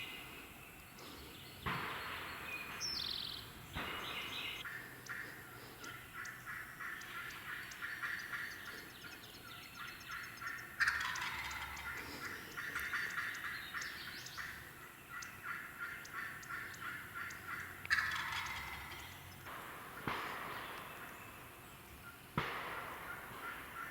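Wild turkey gobbler gobbling several times, the loudest gobbles about 11 and 18 seconds in, each starting suddenly and trailing off.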